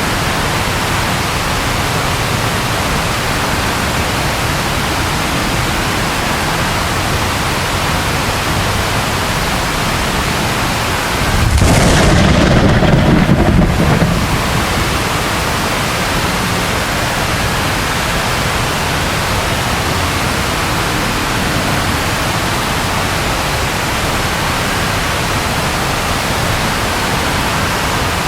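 Steady rain falling, an even hiss. Near the middle, a roll of thunder rumbles for about two and a half seconds, deep and louder than the rain, then dies away.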